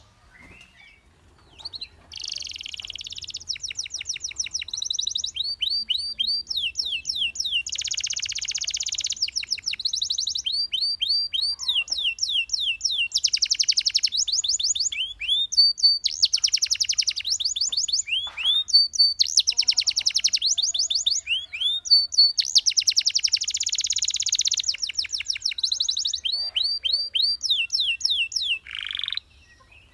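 Domestic canary singing a long, high-pitched song of fast trills and quick runs of repeated chirps, broken by short pauses. It starts about two seconds in.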